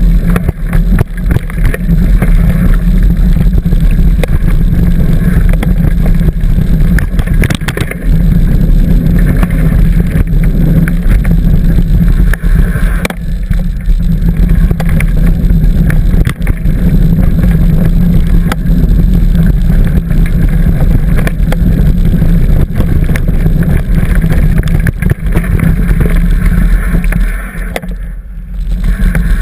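Wind buffeting a bike-mounted camera's microphone over the rumble and rattle of a mountain bike rolling along a dirt trail, with many small clicks and knocks; it eases briefly near the end.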